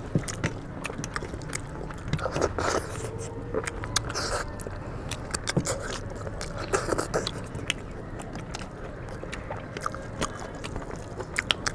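People eating chicken curry and rice: biting and chewing with many small clicks and scrapes, a few louder scraping noises in the first few seconds.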